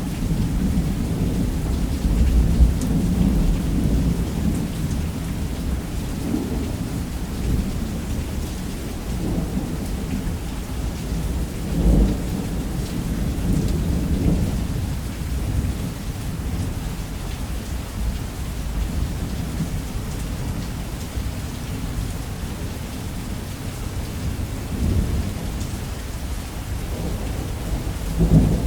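Thunderstorm: deep rolling thunder that swells and fades throughout, with sharper cracks about twelve seconds in and again near the end, over steady heavy rain.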